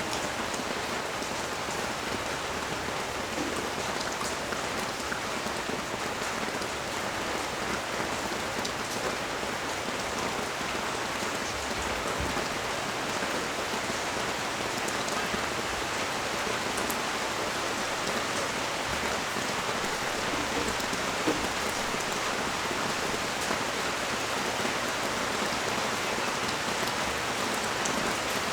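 Steady heavy rain falling on street and balcony surfaces, an even hiss with scattered drop ticks and one sharper drip about 21 seconds in.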